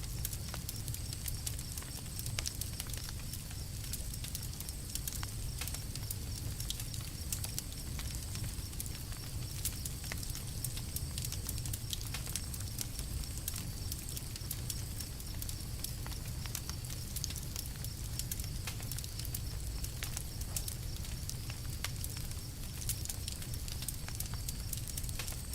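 Campfire crackling: many short, sharp pops and snaps scattered irregularly over a steady low rumble.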